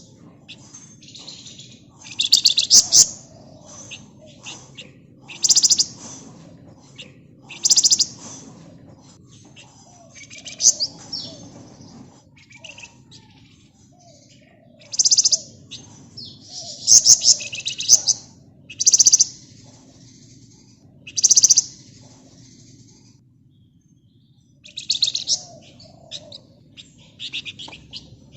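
Flamboyan (wergan Jawa, Javan fulvetta) singing: repeated short, high, rapid scratchy chattering trills, one every second or two, with a pause of about two seconds late on.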